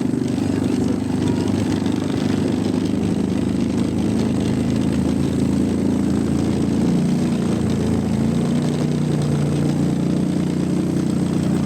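ATV engine running steadily, its pitch easing down a little in the second half.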